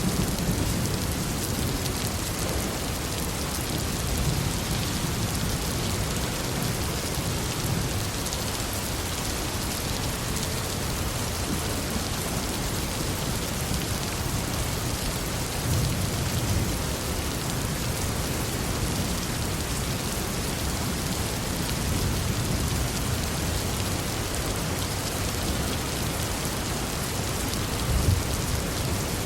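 Heavy, steady rain falling, with low rolls of distant thunder twice, about halfway through and near the end.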